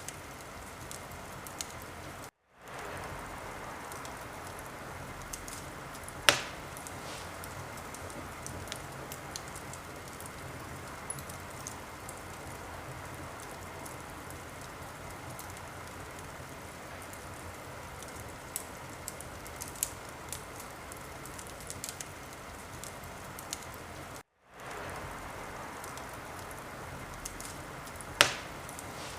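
Wood fire crackling in a fireplace: a steady hiss with scattered small pops and two sharp, louder pops, one about six seconds in and one near the end. The sound cuts out for a split second twice.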